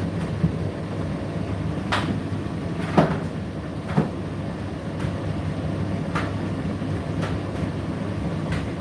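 Indesit IDC8T3 condenser tumble dryer running: a steady motor and drum hum, with sharp knocks about once a second as the load tumbles in the drum, the loudest around two, three and four seconds in.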